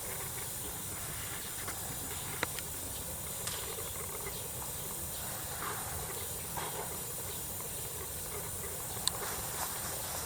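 Steady hiss-like background noise with a couple of sharp faint clicks, about two and a half seconds in and again near the end.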